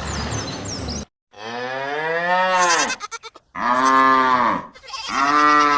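A cow mooing three times: a long call that rises and falls in pitch, then two shorter ones. Background music stops suddenly about a second in, just before the first moo.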